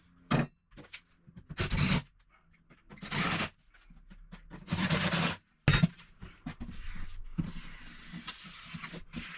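Wooden wedges and timber framing being worked under a shower-tray frame to level it: three short scraping noises, then after a sharp click a faint steady hiss with small clicks.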